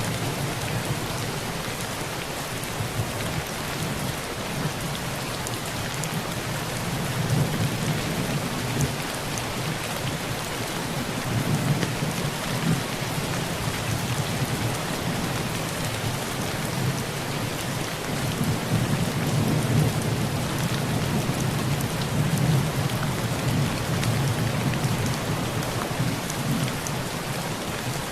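Heavy rain falling steadily on a tin roof, with low thunder rumbling underneath. The thunder swells and fades several times, strongest about a third of the way in and again past the middle.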